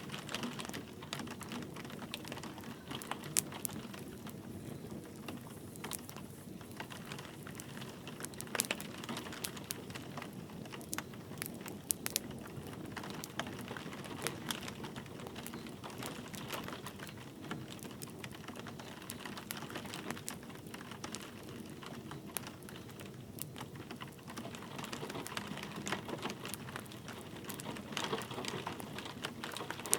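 A wood fire crackling with irregular sharp snaps and pops over a steady hiss of light rain.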